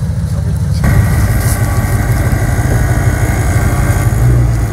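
Off-road 4x4's engine running with a deep, steady rumble that grows fuller about a second in.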